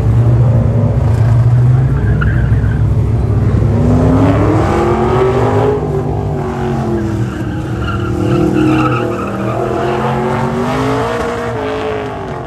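Car engine on an autocross course, revving up and falling back several times as the car accelerates and slows through the cones, with tire squeal.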